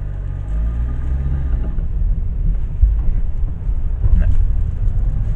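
Ford Ka III driving over a rough stretch, heard from inside the cabin: a steady engine and tyre rumble with no clatter from the front left. The rattle is cured now that the brake pads sit under the pressure of a new clip.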